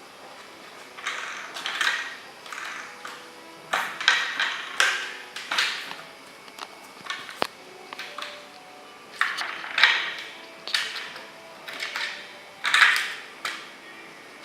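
A cat batting and scratching at a plastic mouse-trap toy with a mouse that turns inside it, making a run of irregular rattling, scraping bursts. There is a sharp click about seven seconds in.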